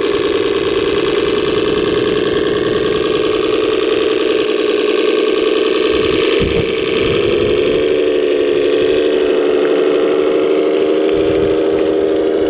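Radio-controlled model construction vehicle running steadily, a continuous mechanical drone with a slight dip and shift in pitch about halfway through.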